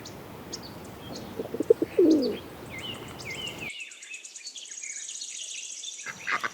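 Pigeon cooing: one low, falling coo about two seconds in, with light bird chirps in the background.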